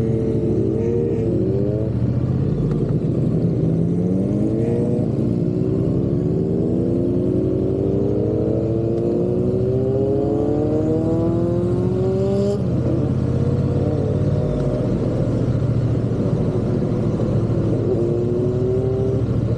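Triumph parallel-twin motorcycle engine being ridden: a few short rises and falls in revs at first, then one long, even climb in pitch lasting about ten seconds that drops off suddenly, after which it runs steadily at a constant speed with a brief lift in revs near the end.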